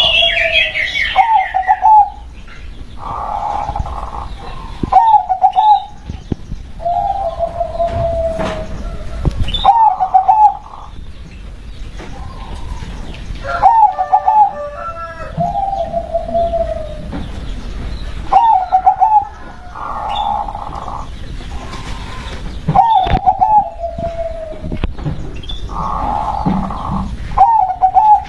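Zebra dove (perkutut) cooing: short trilled coo phrases repeated every two to three seconds. A higher bird chirp sounds at the very start.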